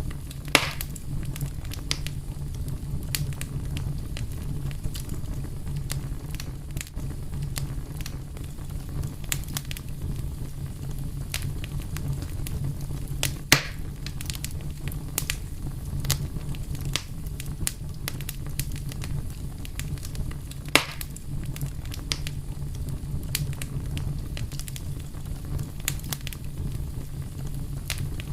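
Fire crackling steadily over a low, even rumble, with frequent small snaps and three louder pops: one just after the start, one about halfway through, and one about three quarters of the way in.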